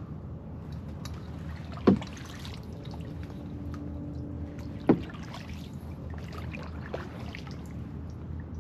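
Kayak paddling on calm water: water trickling and swishing off the paddle, with two sharp knocks about three seconds apart.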